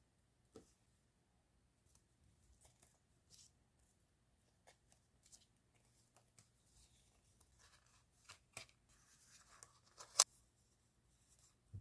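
Scattered soft rustles and small clicks of paper stationery and stickers being handled, with a sharper click about ten seconds in.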